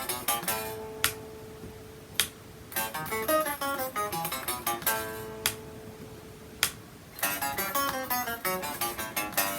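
Guitar played as a right-hand picking warm-up drill: quick runs of single picked notes, twice stopping on a held note that rings for over a second, with sharp clicks about a second apart during the held notes.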